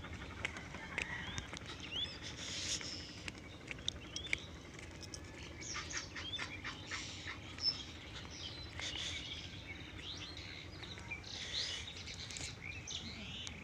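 Small birds chirping and calling, many short chirps and little whistled glides, with a run of light taps about six to seven seconds in.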